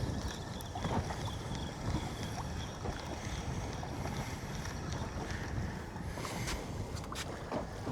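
Wind buffeting the microphone and sea water moving around a small fishing boat, with a faint high whine over the first few seconds and a few light clicks near the end.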